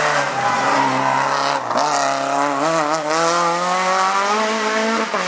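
Rally car engine under hard acceleration, its pitch climbing steadily, with brief drops about a second and a half in and again near the end as the driver changes gear.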